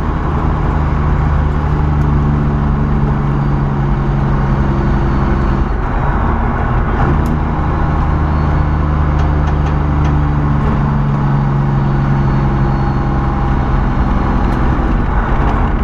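Semi truck's diesel engine running steadily under way, heard from the cab; the turbocharger is barely working. The engine note breaks briefly about six seconds in and again near the end.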